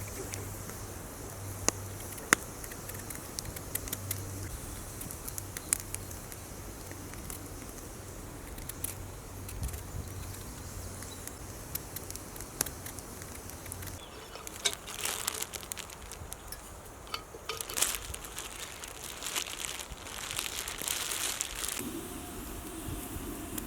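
Wood campfire crackling with scattered sharp pops. A denser stretch of rustling and handling noise runs through the second half.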